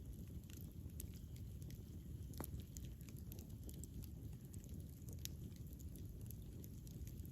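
Wood campfire burning: a steady low rumble of flames with frequent small, irregular crackles and pops, a few sharper ones scattered through.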